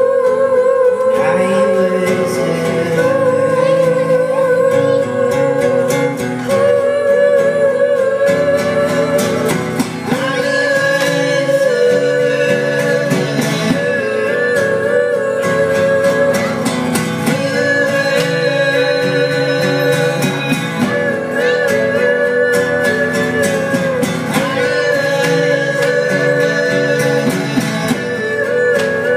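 Live band music: plucked guitar under a melody line of long, slightly wavering held notes in repeating phrases, with singing.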